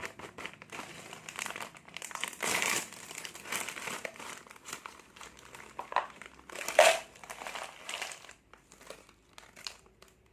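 Plastic seblak snack packet crinkling and rustling as it is torn open and handled, in irregular bursts, loudest about a quarter of the way in and again past the middle, dying down near the end.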